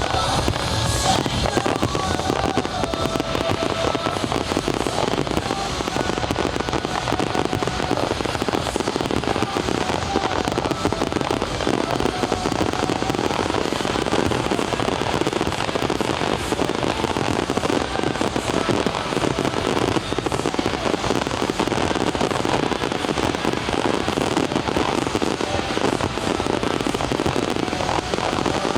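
Fireworks display going off in a dense, continuous stream of crackles and bangs, with the show's music soundtrack underneath.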